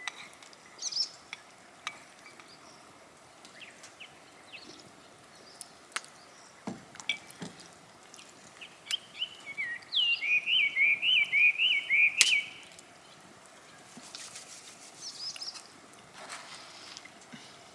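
A bird singing a quick run of high chirping notes about ten seconds in, among scattered softer chirps. Sharp clicks and snaps come now and then, the loudest just after the song.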